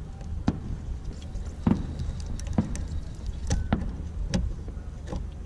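Fireworks bursting at a display: a handful of sharp cracks and bangs at irregular intervals over a steady low rumble.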